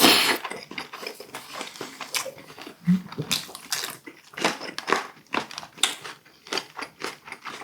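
Close-miked eating sounds: chewing boiled duck meat, with many short, irregular wet mouth clicks.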